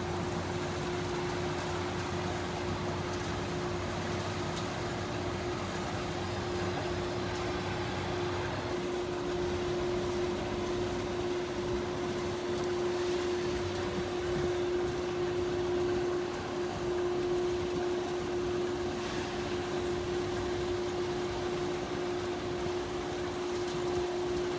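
Engine of a grass-cutting machine running steadily, with one constant droning tone over a noisy hum.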